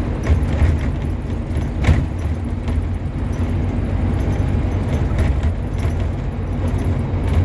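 Scania N230UB OmniCity bus's five-cylinder diesel engine running steadily as the bus drives, heard from inside, with the cabin rattling and a sharp knock about two seconds in.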